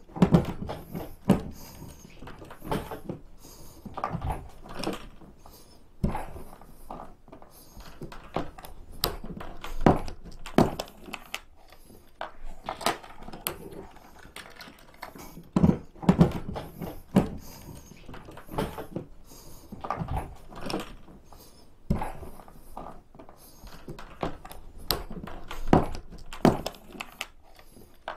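Irregular knocks, clatters and thuds of a Tucktec folding kayak's plastic parts being handled and fitted together, with scattered loud bumps among softer rustling.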